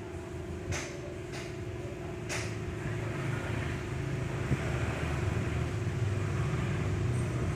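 Motorised rickshaw engine running steadily, with a low rumble that grows louder about three seconds in. There are three short hissing bursts in the first couple of seconds.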